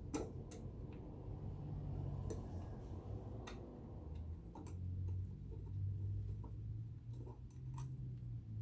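Scattered light clicks and taps of a screwdriver and small metal parts as screws are driven into a vintage all-metal sewing machine, over a low steady hum.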